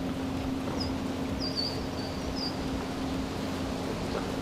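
Wind noise over open water with a steady low hum underneath, and a bird giving several short, high chirps.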